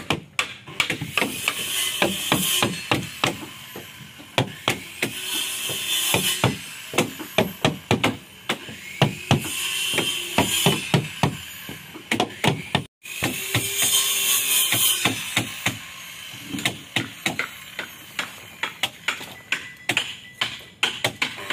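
Hammer blows on ulin (ironwood) boat timber, struck in quick irregular runs, with a few longer stretches of rasping noise between the runs.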